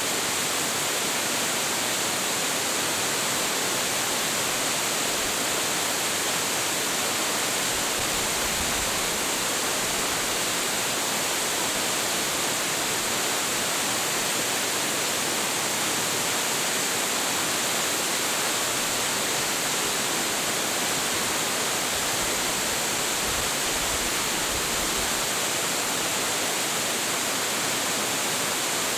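A large, high-volume waterfall falling steadily, a constant dense rush of water that hardly changes.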